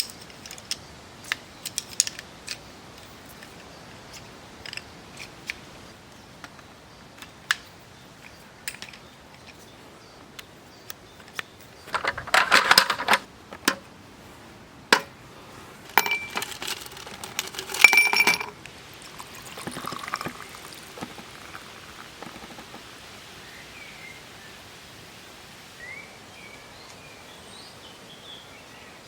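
Camp gear being handled: scattered clicks and knocks, then a cluster of metallic clinks, two of them with a short ring, around the middle. Birds chirp faintly near the end.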